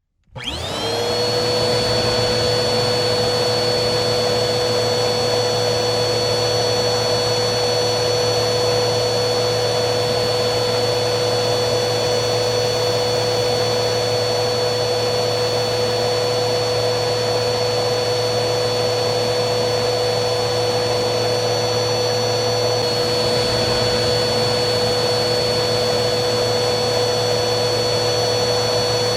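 Vacuum cleaner motor starting up at the very beginning, its whine rising to full speed within about a second. It then runs steadily with a constant high whine over a broad rushing noise.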